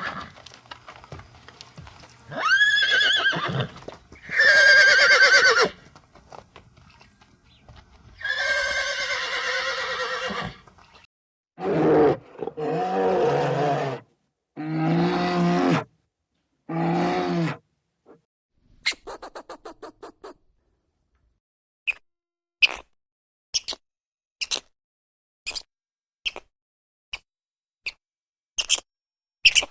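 Horse neighing, three whinnies with falling pitch in the first ten seconds. These are followed by four shorter, lower-pitched animal calls, then a quick run of faint clicks and a series of short sharp chirps about every 0.7 s.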